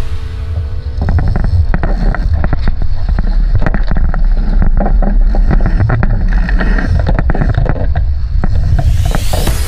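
A sailing dinghy under way: wind buffets the microphone with a heavy low rumble, and water rushes against the hull, with many short knocks and splashes throughout.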